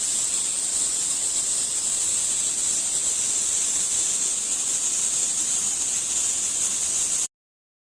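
A steady, high-pitched hiss with no distinct tone, cutting off abruptly near the end.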